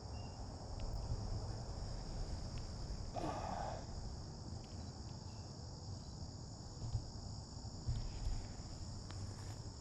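A steady, high-pitched chorus of crickets, unbroken throughout, over a low rumble. A brief rustle about three seconds in.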